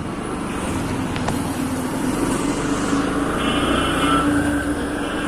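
Motorcycle engine running while riding along a road, its pitch rising slightly as it goes, over steady road noise. A short high-pitched tone sounds about three and a half seconds in.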